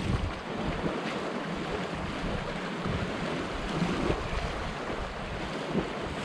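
Sea surf washing against coastal rocks, with wind buffeting the microphone.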